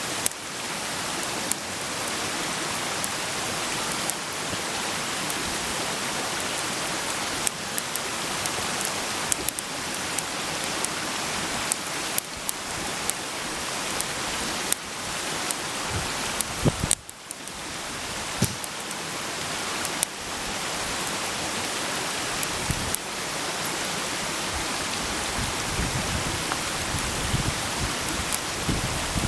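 Food sizzling in a frying pan over a campfire: a steady hiss with scattered sharp pops and crackles. The sizzle dips briefly just past halfway.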